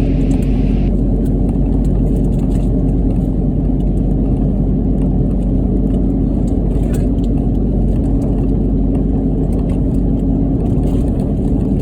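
Mitsubishi Delica D5 driving at a steady speed on all-terrain tyres: a continuous low rumble of tyre road noise and engine.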